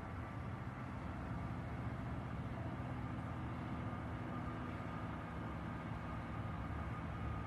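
Jet engines of an Airbus A320neo at takeoff power, heard from a distance as a steady low rumble with a thin high whine, growing slowly louder.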